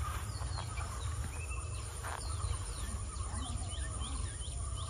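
Outdoor ambience: a bird gives a quick series of short, falling chirps in the second half, over a steady low rumble and a thin, steady high tone.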